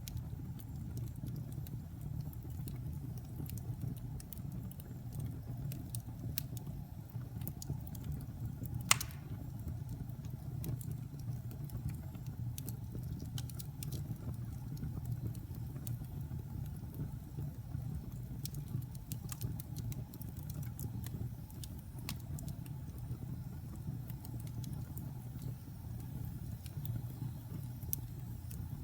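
Wood fire burning in a fireplace: a steady low rumble from the flames with scattered crackles, and one sharp pop about nine seconds in.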